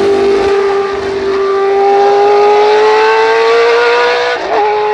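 Racing car engine at high revs, holding one strong note that climbs slowly as it pulls through a gear, then an upshift about four and a half seconds in drops the pitch before it climbs again.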